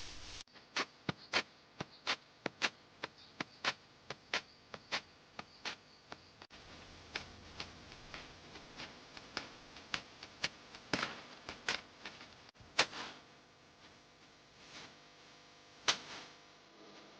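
Rain dripping: irregular sharp ticks of drops landing on a hard surface, two or three a second and uneven in loudness, over a faint steady hiss of rain.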